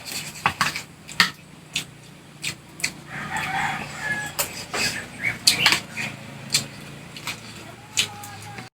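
Close eating sounds: sharp irregular clicks and smacks of chewing and a spoon on the plate. A chicken clucks in the background, most around the middle.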